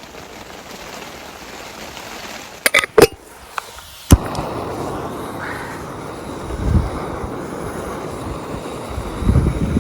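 Camping gas stove being lit: a few sharp igniter clicks, then a steady rushing burner noise that starts suddenly about four seconds in, with a couple of low rumbles.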